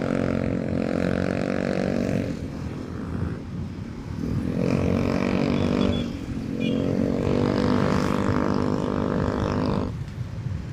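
Motorcycle engine running under throttle on the road. It eases off about two seconds in, pulls again from about four and a half seconds, and drops back near the end.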